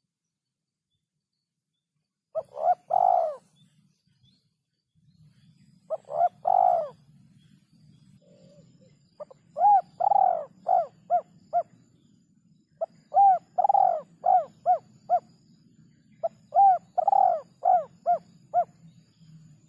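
Spotted dove cooing in five phrases: the first two short, the last three each a long coo followed by a quick run of shorter coos. A faint low hum runs underneath.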